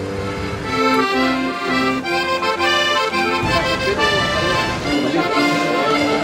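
Background music led by an accordion playing a lively melody of short repeated notes, coming in strongly about a second in.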